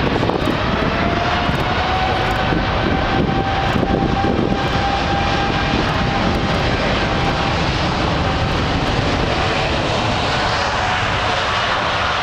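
Boeing 747-8I's four GEnx turbofan jet engines at takeoff thrust: a loud, steady rush of jet noise with a whining tone that rises slightly about half a second in and then holds.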